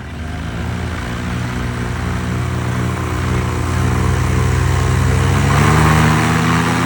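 Paramotor engine and propeller running, growing steadily louder and rising a little in pitch as the throttle comes up.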